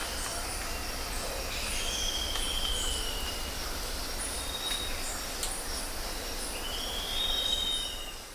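Birds calling with long, slightly falling whistled notes, over high on-and-off insect buzzing and a steady low rumble.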